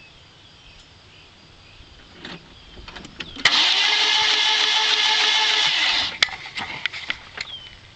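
1997 Saturn being cranked by its starter motor: a steady whir for about two and a half seconds that stops without the engine catching. This is a no-start. A few sharp clicks follow.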